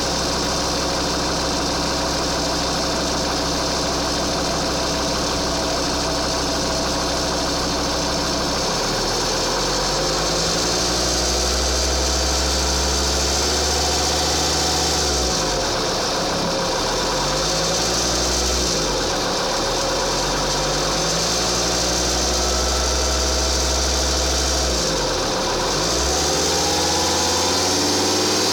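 2.4 JTD inline five-cylinder common-rail diesel engine idling steadily for about nine seconds, then revved up and down several times, with a strange noise the owner wants to show.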